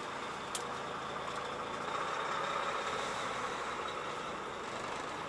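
Truck engine running steadily, swelling a little in the middle, with a short sharp click about half a second in.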